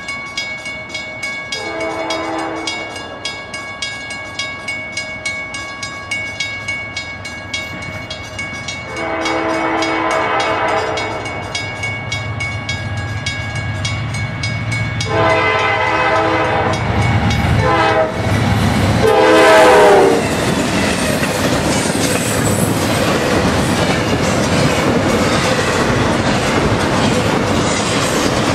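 A grade-crossing bell rings rapidly while a Norfolk Southern diesel locomotive's horn sounds for the crossing. There is one blast about two seconds in, then the long, long, short, long crossing pattern from about nine to twenty seconds. The locomotive's engine rumbles past right after the last blast, and the stack train's cars then roll by with steady wheel noise.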